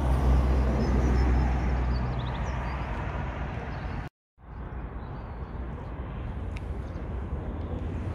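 A car engine idling with a low, steady hum that eases off slightly; after a cut about four seconds in, only quieter open-air background noise.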